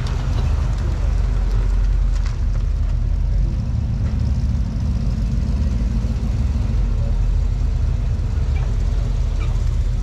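Car engine running with a steady, deep low rumble as a car pulls in.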